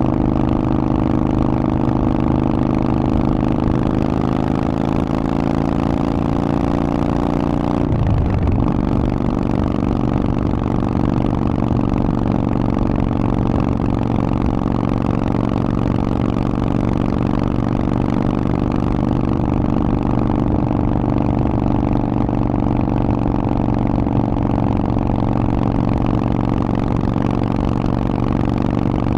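Harley-Davidson Forty-Eight's air-cooled V-twin running through a Vance & Hines aftermarket exhaust while riding. The engine note climbs slowly, breaks for a moment about eight seconds in, then runs steady.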